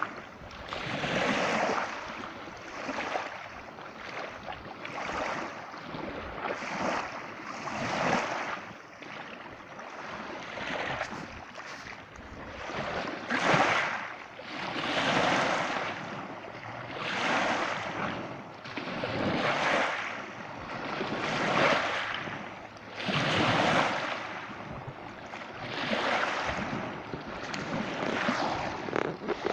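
Small sea waves washing in one after another, a rushing surge swelling and fading about every two seconds.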